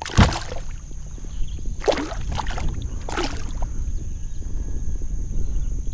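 Steady low wind rumble on the microphone, broken by three short splashing, sloshing bursts of water against the kayak: one right at the start, one about two seconds in and one about three seconds in.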